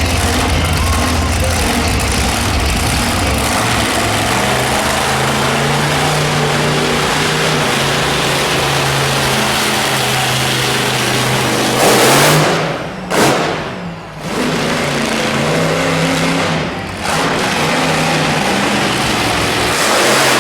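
Monster truck engine running hard and revving, its pitch climbing and shifting over a loud wash of noise. A loud rushing burst comes about twelve seconds in, followed by brief drops in the engine note.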